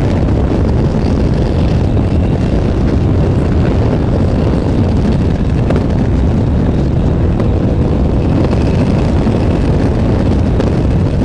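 Loud, steady motor noise mixed with wind rush, with no clear rise or fall in pitch; it starts and stops abruptly.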